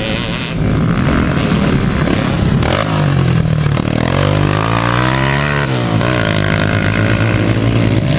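Motocross motorcycle engines running, with one revving up and then dropping back in pitch about midway through.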